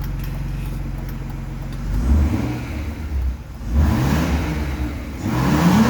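BMW E46 drift car's engine idling steadily, then revved three times, each rev climbing and dropping back.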